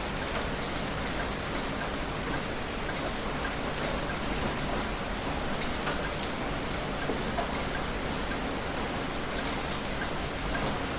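Heavy rain falling steadily, a dense even hiss with many separate drops ticking on a surface.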